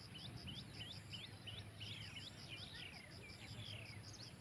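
A bird calling a quick series of short rising whistled notes, about a dozen in three seconds, ending with a few longer falling ones. Underneath are a faint, even insect chirp at about four pulses a second and a steady low rumble.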